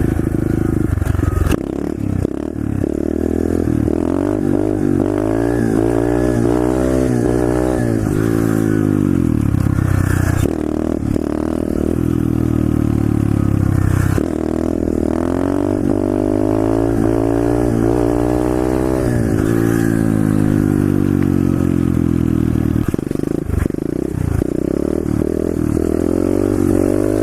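A 125cc SSR pit bike's single-cylinder four-stroke engine being ridden. Its pitch climbs several times under throttle and falls away when the throttle is shut, sharply about nine and twenty seconds in. It runs without the vibration that a loose top motor mount had caused, now that the mount is tightened.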